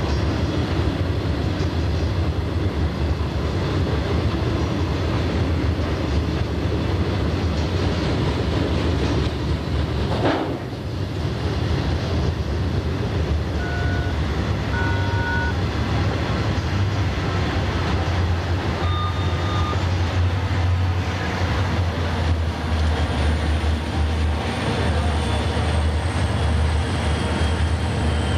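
Conrail freight train of loaded cars rolling past, with a steady rumble and clatter of wheels on rail, one sharp knock about ten seconds in and a few short wheel squeals. Near the end, diesel locomotives come out of the tunnel and a faint high whine builds.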